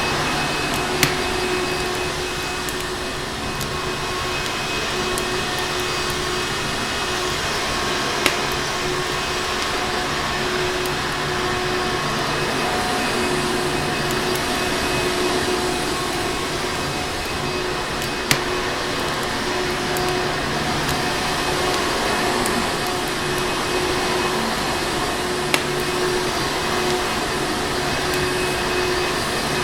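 Vacuum cleaner motor running steadily, a constant rushing drone with a steady hum in it. A crackling fireplace lies under it, heard as four sharp, scattered pops.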